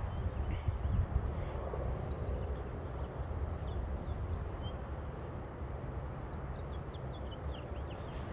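Gusty wind buffeting the microphone with an uneven low rumble, while small birds chirp faintly and repeatedly in short high notes.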